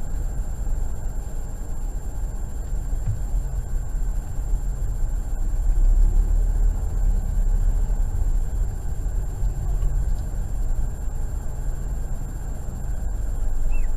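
Steady low rumble of a car driving, engine and tyre noise heard from inside the cabin, with a faint steady high whine.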